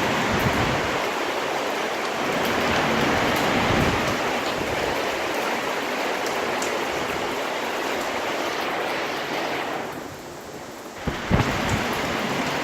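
Steady rain falling. Shortly before the end the rain noise drops away and sounds muffled for about a second, then a short thump is heard and the rain comes back.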